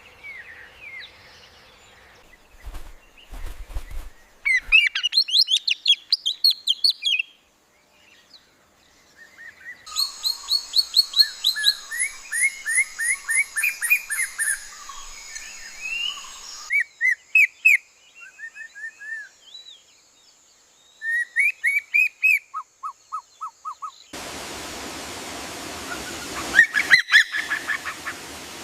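Songbirds chirping and trilling in quick series of short notes, in several different song phrases that start and stop abruptly as if spliced together. A steady hiss comes in under the chirps near the end.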